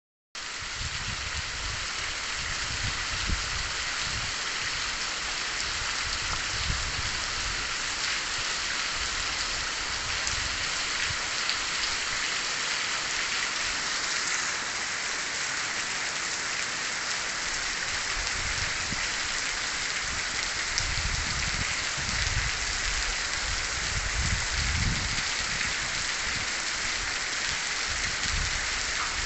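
Heavy rain falling and pattering steadily on surfaces, a dense even hiss, with low rumbles that come and go.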